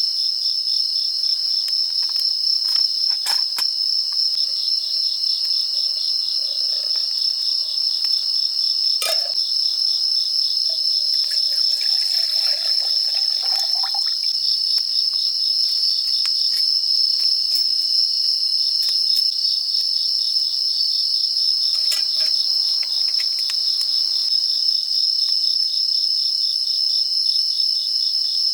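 A steady, high-pitched chorus of crickets and other insects trilling without a break, with a fast pulsing chirp under the main trill. A few faint clicks and knocks of something being handled sound now and then.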